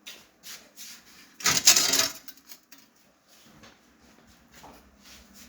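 Metal stove fittings being handled: a few light clinks, then a louder scrape lasting about half a second about a second and a half in, followed by faint scattered clicks.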